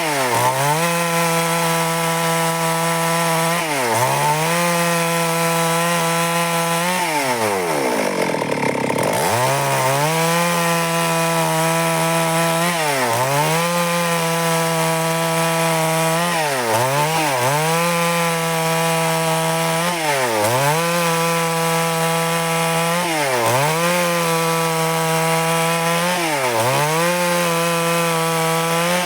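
Stihl MS 382 two-stroke chainsaw running at high revs while cutting lengthwise through wood. Every few seconds the engine note drops briefly and climbs straight back, with one longer drop and recovery about eight seconds in.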